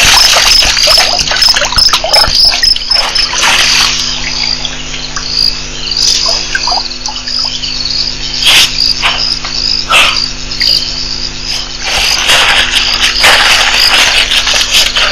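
A cricket chirping steadily, a short chirp about twice a second, over a low steady hum. Louder bursts of noise break in a few times, longest from about three-quarters of the way in.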